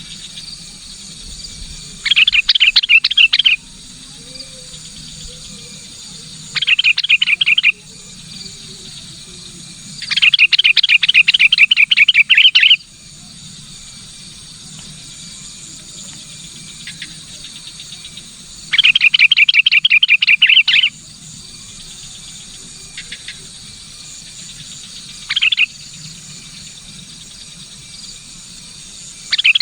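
Sooty-headed bulbul (kutilang) calling in loud bursts of rapid, chattering repeated notes, each burst one to three seconds long, with a few shorter ones. A steady high insect chorus runs beneath.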